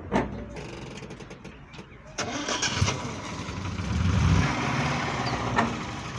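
Datsun 120Y's 1.2-litre four-cylinder engine starting: two sharp clicks, then it catches about two seconds in, revs up briefly around four seconds in and settles to a steady run.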